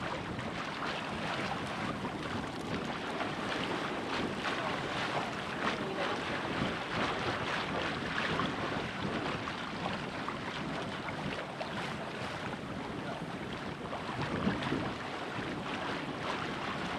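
Steady wind buffeting the microphone over water rushing along the hull of a sailboat under sail.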